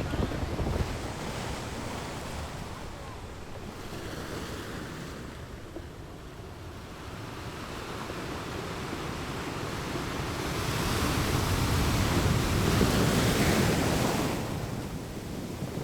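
Strong wind rushing and buffeting the microphone, a steady roar that swells louder about two-thirds of the way through and then eases off.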